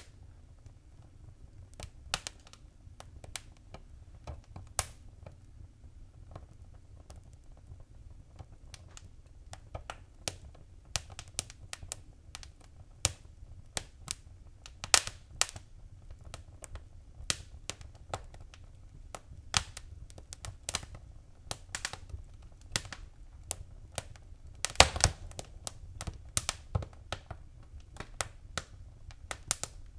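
Fire in a fireplace crackling: irregular sharp pops and snaps over a low steady rumble. The pops grow more frequent after the first several seconds, with a quick cluster of loud pops near the end.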